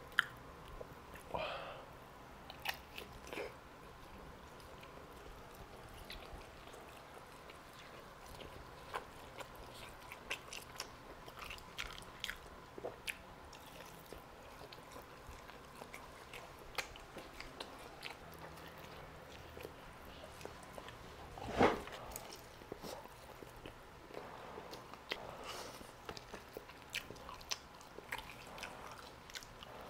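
Close-up eating sounds of a person biting and chewing grilled chicken drumsticks: scattered wet mouth clicks and smacks, with one louder smack about two-thirds of the way through.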